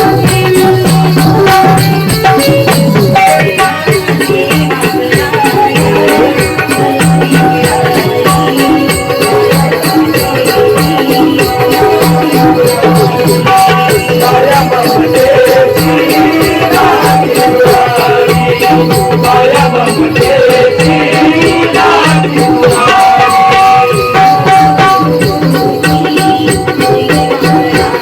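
Live naman folk music: a steady rhythm of drum and rattling percussion under sustained held notes, with a wavering melodic line rising above it in the middle.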